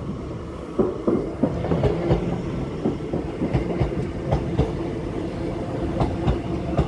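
A train running past, its wheels clacking over rail joints in an uneven series of sharp clicks from about a second in, over a steady hum.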